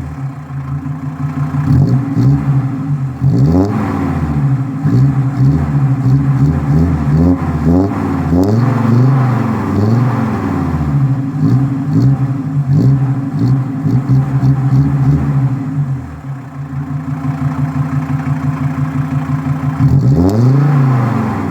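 Mercedes W124 250D's OM602 five-cylinder diesel running with its muffler removed: the open exhaust idles with a steady pulsing beat and is revved up and let fall back several times, most sharply about 3 s in, around 8 to 10 s and near the end.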